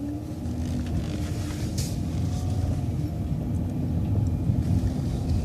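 City bus engine pulling away and running under load, with a low rumble that grows louder over the first second and then holds steady.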